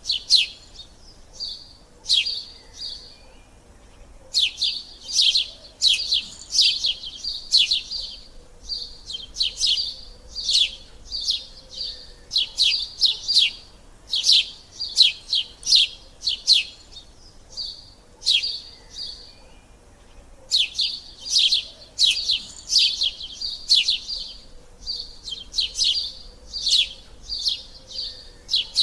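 Sparrows chirping: quick runs of short, sharp chirps, broken by brief pauses every few seconds.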